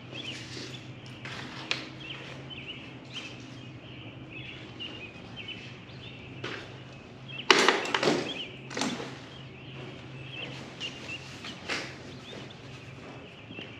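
Birds chirping over and over over a steady low hum, with a sharp knock about seven and a half seconds in and a few softer knocks and clicks around it.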